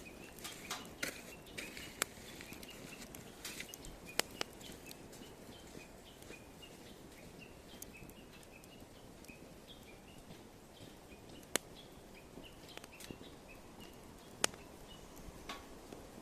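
Wood fire crackling in a small folding fire pit, with sharp irregular pops over a low hiss. Through the middle a run of short high chirps repeats a few times a second.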